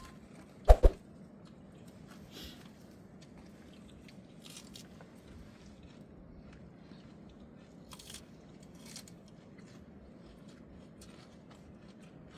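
Close-up eating sounds: chewing and small crunches with scattered light clicks, after two sharp knocks about a second in.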